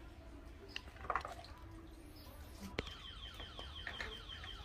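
A small bird chirping in a rapid run of short, falling notes, about seven a second, in the second half, just after a single sharp click.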